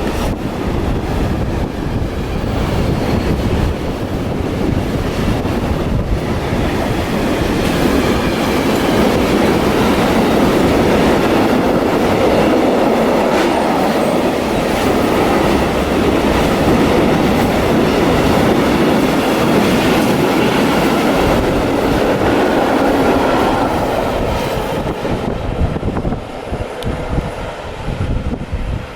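Intermodal freight train rolling past on the line, wheels clattering over the rail joints. The rolling noise grows louder and then eases off over the last few seconds.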